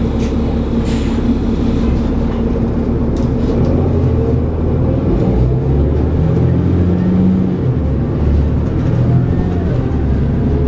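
Interior sound of a New Flyer D40LF transit bus with a Cummins ISL diesel engine and ZF 6HP592C automatic transmission, running on the road. The engine note grows stronger and shifts in pitch through the middle, then settles back.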